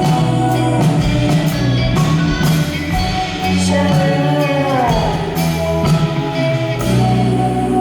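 Live band music with singing over drums and bass; one note slides down in pitch about five seconds in.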